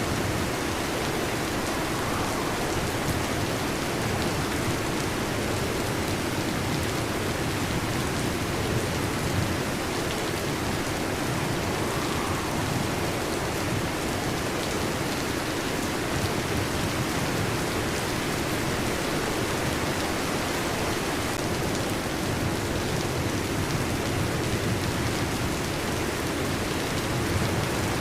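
Steady rain falling, an even wash of sound with no thunderclaps or breaks.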